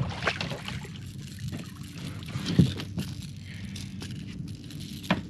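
Water splashing and dripping around a fishing kayak as a blue catfish is brought aboard, with scattered knocks and clicks of handling against the boat and a sharp knock near the end, over light wind noise.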